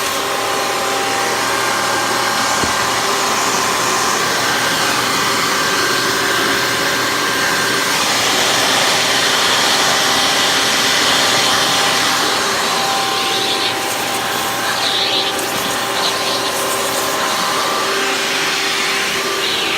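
Hoover Caddy Vac upright vacuum cleaner running with its hose attachment tools in use: a steady direct-air motor whine under a rush of air. The airflow hiss gets stronger for a few seconds in the middle.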